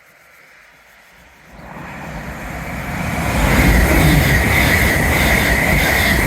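A TransPennine Express train approaching and passing through the station at speed. The rumble of wheels on rails builds for about two seconds and then stays loud, with a steady high-pitched whine above it.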